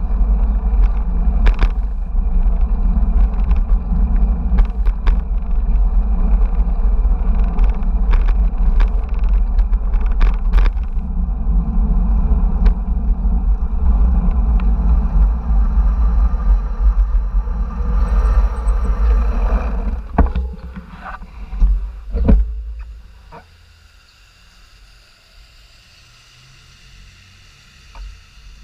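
Wind buffeting a camera microphone on a moving bicycle: a loud, steady low rumble with scattered rattles and knocks from the bike over the road. It dies down about twenty seconds in, leaving a much quieter background with a few light clicks.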